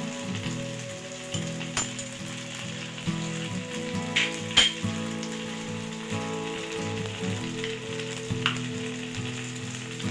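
Food sizzling as it fries in a pan, with a few sharp clinks of a utensil against the pan, one loudest near the middle.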